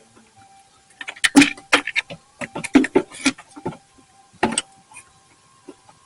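Irregular sharp metallic clicks and clanks of hand tools and parts being handled in an engine bay, several in quick succession and then a few single knocks, with a faint steady high-pitched tone underneath.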